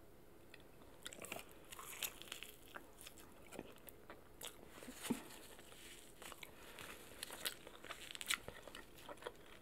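Close-up chewing and crunching of a breaded boneless chicken wing, with irregular crisp bites and mouth clicks starting about a second in.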